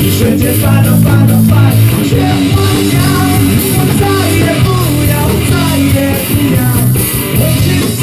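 Live rock band playing an instrumental stretch between sung lines: electric guitar, bass and drum kit at a loud, steady level.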